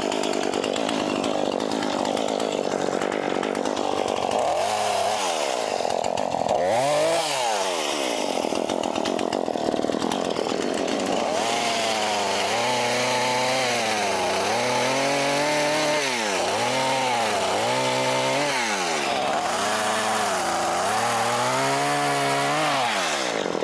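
Two-stroke chainsaw running and cutting brush, its engine speed rising and falling over and over: two slow swells, then quicker rev-and-dip cycles about once a second through the second half.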